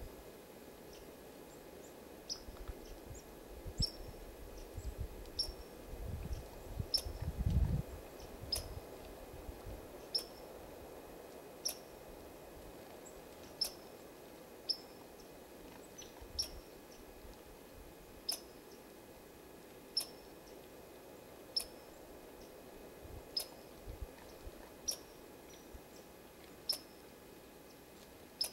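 A small animal's single short high chirp, repeated steadily about every one and a half seconds. A low rumble, loudest around seven to eight seconds in, sits under the first part.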